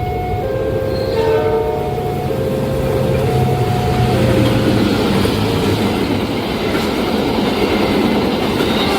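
Level-crossing warning alarm sounding alternating electronic tones while a train approaches and runs past. The rumble of the train grows from about halfway through, as the alarm tones die out.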